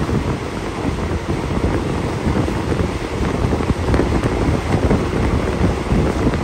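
Passenger train carriage running along the track, a steady low rumble heard from its open window, with heavy wind buffeting the microphone.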